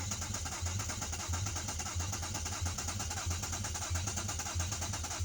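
Car engine being cranked on the starter, the engine firing unevenly in a steady pulsing rhythm without catching to run on its own. It lacks a mass airflow sensor, so it is not expected to run.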